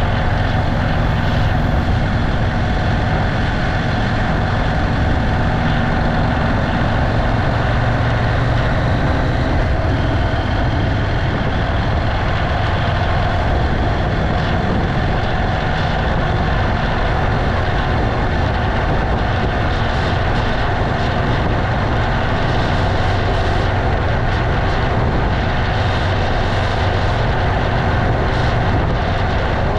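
Motorcycle engine running steadily on the move, its low hum under an even rush of road and wind noise.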